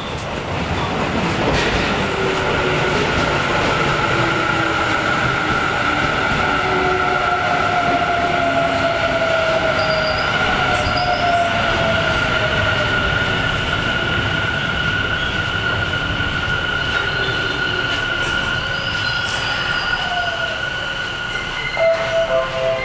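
Electric train moving along a station platform, its wheels squealing on the rails in a steady high tone over the rumble of the running gear.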